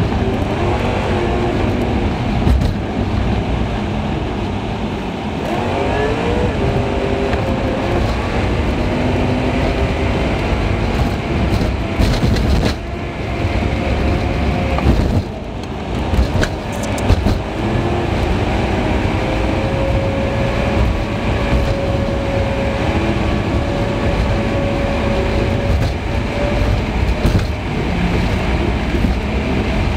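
Car engine and road noise picked up by a dash cam, played back sped up, with the engine pitch rising and falling as the car moves through traffic.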